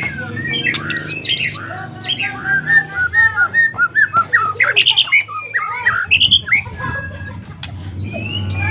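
White-rumped shama (murai batu) singing in full voice: a rapid, varied string of whistles, slurred glides and chattering notes, densest in the middle, with a steady low hum underneath.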